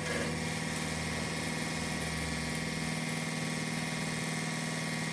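A machine running steadily with an even, unchanging hum.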